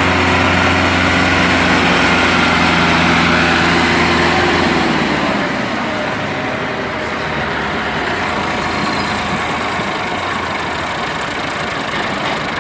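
Massey Ferguson tractors' diesel engines running under load, pulling a loaded sugarcane trolley. About five seconds in, the engine pitch falls as the revs drop, and the sound turns rougher and a little quieter.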